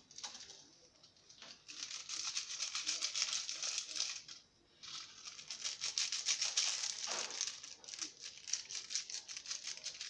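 Plastic Indomie seasoning sachets crinkling and being torn open, in two long spells of rapid crackling with a short pause about four and a half seconds in.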